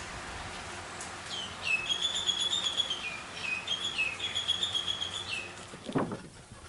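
A bird singing: a run of clear, whistled notes that step up and down in pitch. It goes on for about four seconds before stopping, over steady background hiss, and a soft thump follows near the end.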